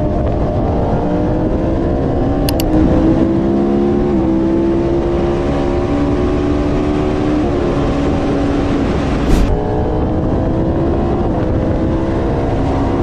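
Motorcycle engine running at highway speed under steady wind noise, its note drifting up and dropping back in steps. There are a couple of clicks about two and a half seconds in and a brief thump about nine seconds in.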